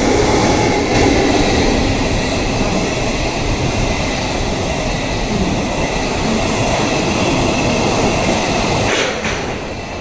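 Train of Chiki flatcars loaded with long rails rolling past behind an EF65 electric locomotive: steady wheel-on-rail noise that starts to die away about nine seconds in.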